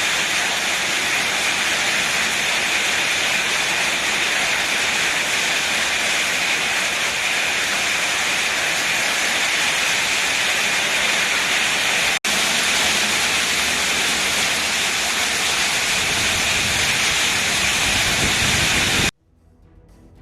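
Hailstorm: a dense, steady hiss of hail and rain pouring down, with a momentary break about twelve seconds in. It cuts off suddenly near the end.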